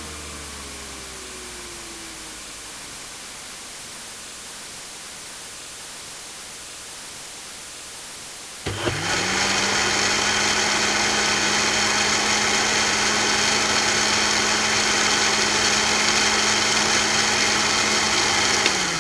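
An electric kitchen appliance motor switched on with a click about nine seconds in, spinning up at once to a steady whir with a bright hiss, then winding down at the end. Before it, only a faint hiss.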